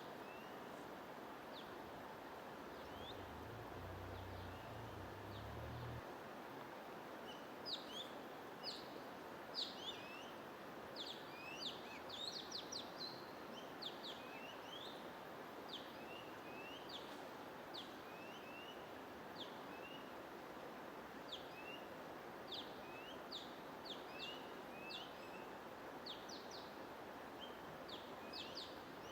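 Small songbirds chirping in quick, short calls, sparse at first and then many in rapid succession from about seven seconds in, over a steady hiss of white noise.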